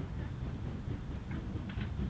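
Steam train running, a steady low rumble, with a few faint short higher sounds near the end.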